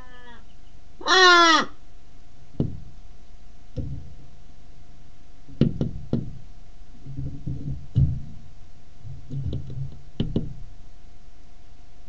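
A crow gives one loud caw about a second in. It is followed by a handful of sharp, irregular knocks a second or two apart, its beak tapping the window glass, with some low scuffling on the perch between them.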